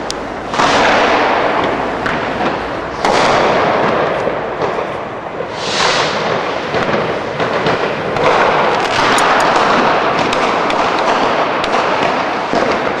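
Fireworks going off: a sudden loud burst about every two to three seconds, each trailing off in a long hissing wash, over a constant rattle of smaller pops and bangs that grows denser toward the end.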